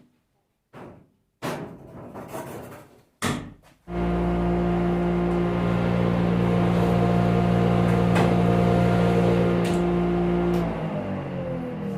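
A few short knocks, then about four seconds in an electric motor starts and runs steadily with a constant hum. It shuts off near the end and winds down with a falling pitch.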